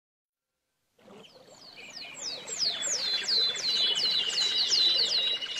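A bird singing a fast run of descending whistled notes, about three a second, fading in after a second of silence over a faint hiss.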